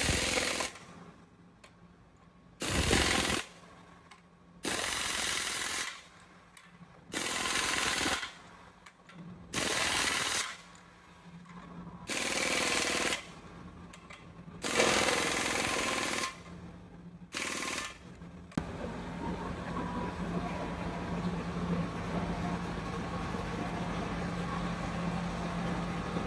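Pneumatic impact wrench fired in about eight short bursts, each roughly a second long and a couple of seconds apart, as used on truck gearbox bolts. From about two-thirds of the way through, a steady machine noise with a low hum takes over.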